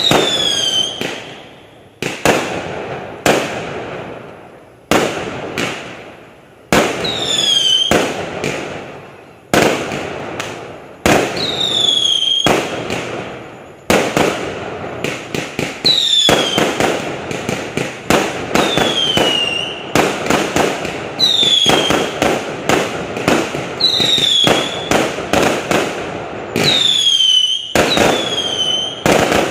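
Aerial fireworks bursting in a rapid series of sharp bangs, one every second or two, each trailing off in crackle. Several bangs carry a short whistle that falls in pitch.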